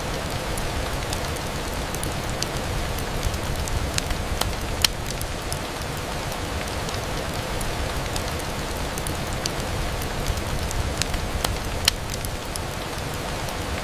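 Steady rain on a window, a constant hiss with scattered sharp ticks; two louder ticks stand out, about five seconds in and near the end.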